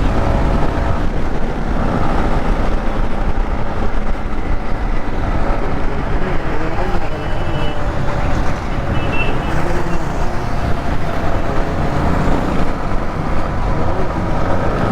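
Motorcycles on the move at road speed: engines running steadily under heavy wind rumble on the microphone.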